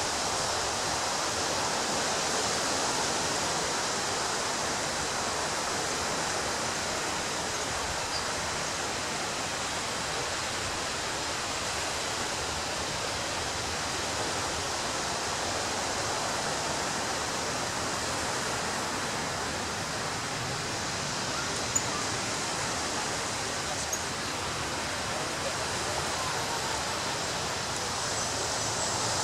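Ocean surf washing on a beach as a steady, even rush of noise, with one sharp click about two-thirds of the way through.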